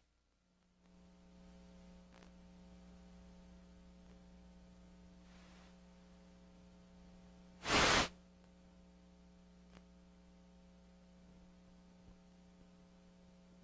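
Dead broadcast audio feed after the 1989 Loma Prieta earthquake knocked out the transmission: the sound cuts off abruptly, then a steady electrical hum with faint hiss. A short, loud burst of static about eight seconds in, and a few faint clicks.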